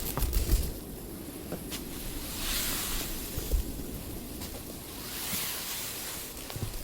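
Wind blowing in gusts, with two hissing swells and a steady low rumble of wind on the microphone; a few knocks in the first second.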